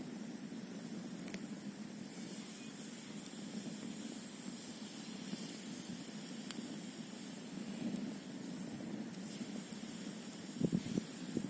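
Campfire burning over a steady rushing hiss, with a few sharp crackles scattered through and a couple of louder pops near the end.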